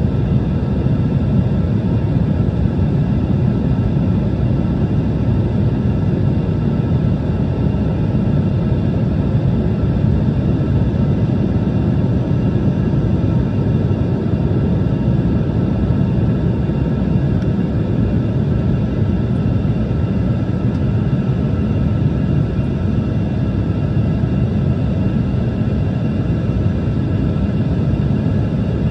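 Embraer ERJ-175 jet running on its two GE CF34 turbofans: a steady low rumble with a few faint, steady whining tones above it, unchanging throughout.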